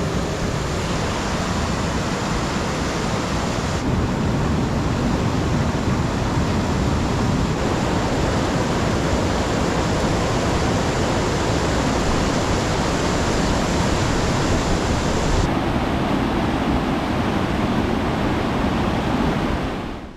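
Waterfall: a loud, steady rush of falling water. Its tone changes abruptly a few seconds in and again past the middle, and it cuts off suddenly near the end.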